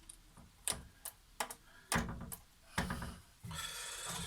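Light clicks and knocks as parts of the TV's LED backlight assembly are handled and pressed into place, followed near the end by a short steady rustling hiss.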